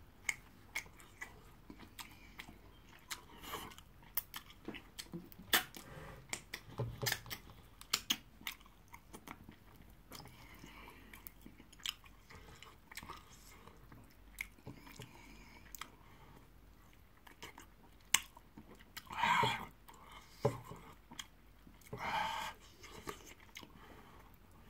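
Close-up chewing and wet mouth smacks of a man eating swallow and egusi soup with his hands, with many short sharp clicks throughout. Two louder, longer mouth sounds come in the last third.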